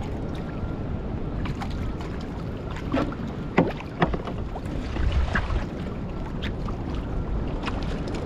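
Choppy sea water sloshing and slapping against a small fishing craft's hull under wind rumble on the microphone, with a few sharp splashes or knocks around the middle, the loudest a little past three and a half seconds in.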